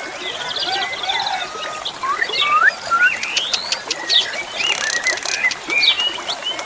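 Pied starling (jalak suren) singing a varied run of rising and falling whistles, fast chattering note series and sharp clicks.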